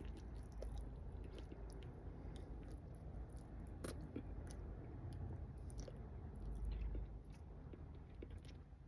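A person chewing a mouthful of food, faint and close to the microphone, with small wet mouth clicks scattered throughout.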